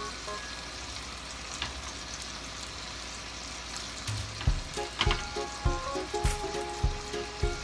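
Ahi tuna steak sizzling steadily in a shallow pan of marinade as it is basted. About four and a half seconds in, background music with a steady drum beat comes in over the sizzle.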